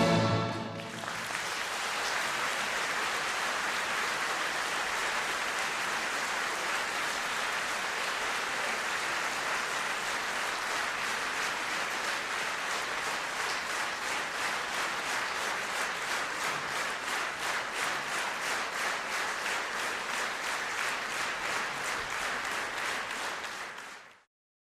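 Theatre audience applauding as the last orchestral chords of the ballet variation die away; after a while the clapping falls into a steady rhythmic unison, and the sound cuts off abruptly just before the end.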